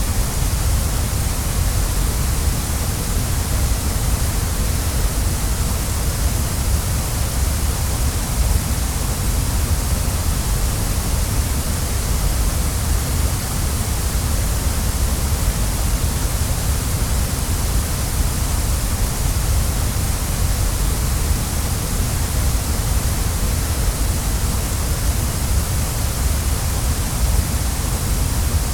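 Waterfall: falling water rushing in a steady, unbroken wash of noise, with a deep low rumble and a bright hiss on top.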